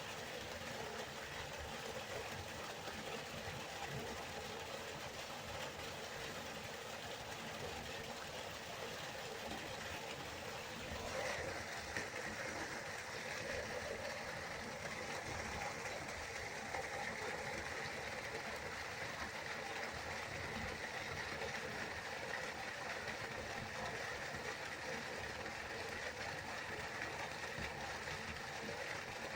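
Steady rush of a waterfall, falling water making an even hiss, its tone brightening slightly about eleven seconds in.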